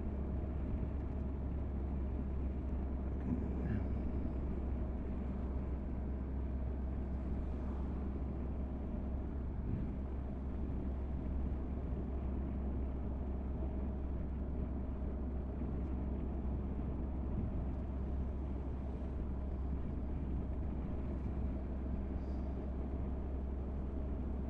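Motorcycle engine running with a steady, even low rumble.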